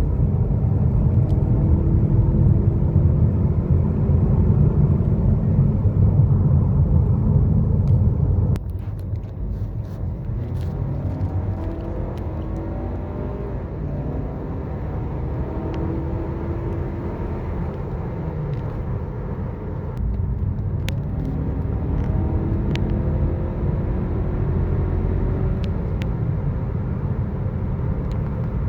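Turbocharged 2.0-litre EcoBoost four-cylinder of a 2018 Lincoln MKC accelerating hard. Its note rises again and again as it runs up through the gears, over a heavy road rumble. The sound drops off suddenly about eight seconds in, then builds again on another run.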